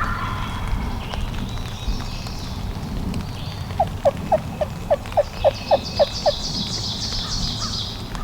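A wild turkey yelping: a run of about ten short, clear, falling notes, roughly four a second, beginning about four seconds in. A songbird trills high above it near the end, over a low rumble of wind.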